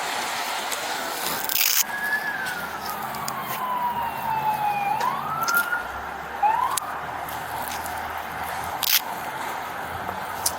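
An emergency-vehicle siren wails, sliding slowly down in pitch for about three seconds, then sweeping back up, with a shorter upward sweep after it. Steady street noise runs underneath, broken by a few sharp knocks.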